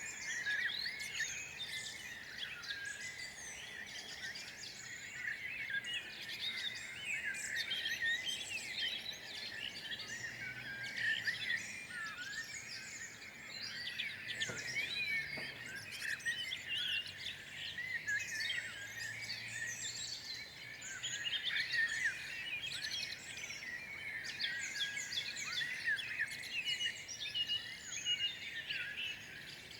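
Dense chorus of many small birds chirping and calling without a break, with a faint low hum under it in the middle stretch.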